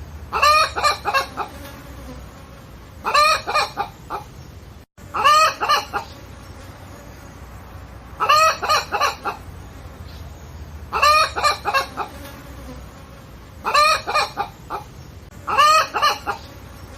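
Chicken calling: a short pitched call repeated seven times, one every two to three seconds, over a steady low background hum.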